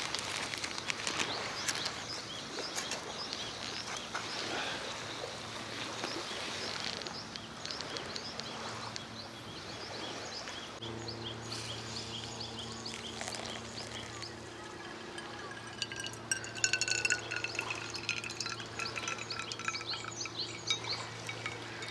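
Small birds chirping and calling in short, repeated notes. A steady low hum joins about halfway through.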